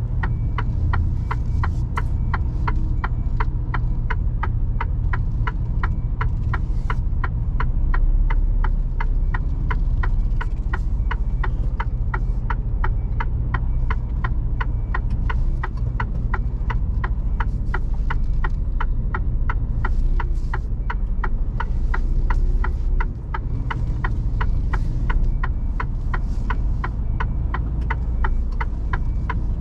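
Mercedes Actros truck cab: the diesel engine's steady low hum with an indicator ticking evenly about three times a second throughout.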